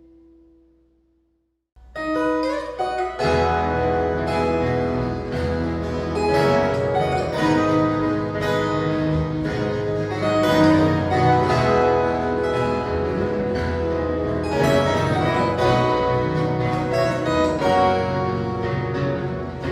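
Ensemble of viola caipira, the ten-string Brazilian folk guitar, playing an instrumental piece. It starts about two seconds in with bright plucked notes over a sustained bass line.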